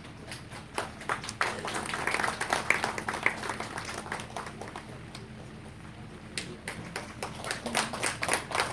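Audience applauding with many overlapping hand claps; the clapping thins out around the middle and picks up again near the end.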